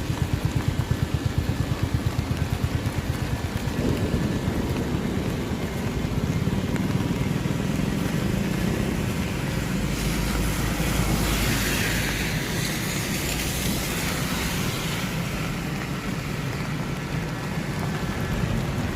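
Road traffic in the rain: vehicle engines running close by over a steady wash of rain. About ten seconds in, a vehicle passes with a swelling hiss of tyres on the wet road.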